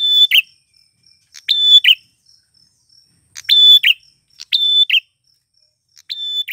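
Male prinia (prenjak klawu) singing its repeated phrase, about five times, one to two seconds apart. Each phrase is a sharp click followed by a short steady high whistle that ends on a lower note. A faint high dotted chirring runs underneath between the phrases.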